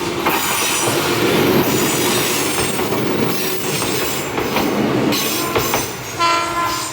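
Oigawa Railway 16000 series electric train running past close by, its wheels clacking over the rail joints, with a brief high squeal near the end.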